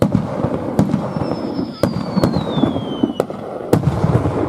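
Aerial fireworks bursting: a sudden loud onset of dense crackling and booms, punctuated by several sharp bangs, with a whistle falling in pitch for about two seconds in the middle.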